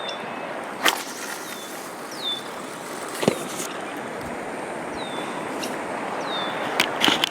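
Steady outdoor background hiss. Over it a bird repeats a short, high, falling chirp every second or so, and there are a few sharp clicks and knocks: one about a second in, one past the three-second mark, and a quick cluster near the end.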